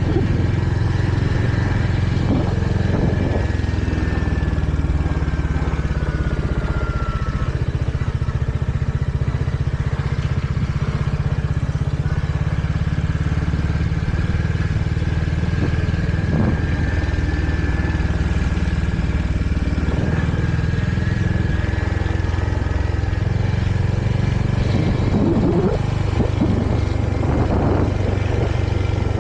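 Royal Enfield Hunter 350's single-cylinder engine running steadily while the motorcycle is ridden, with the sound staying even throughout.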